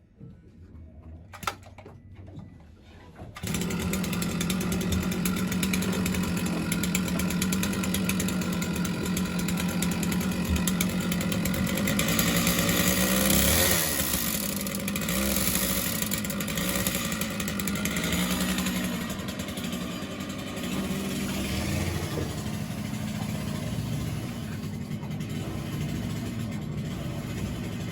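A winch motor starts about three seconds in and runs steadily, hauling the steel cable back up, with a brief shift in pitch around the middle.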